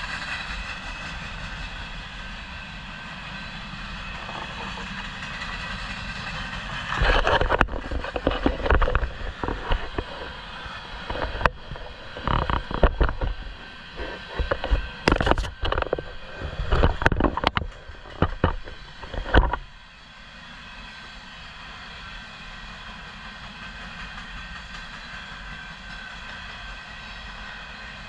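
Freight train of grain cars rolling past, a steady rail noise with thin high ringing tones. About a quarter of the way in a stretch of loud, irregular surges and knocks begins and lasts roughly twelve seconds before the steadier rolling sound returns.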